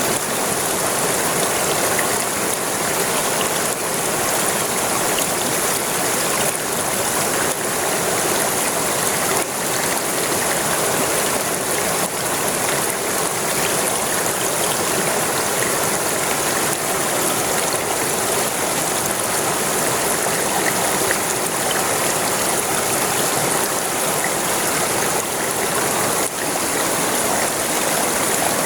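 River water flowing and rushing steadily past the bank, an even rushing hiss without pause.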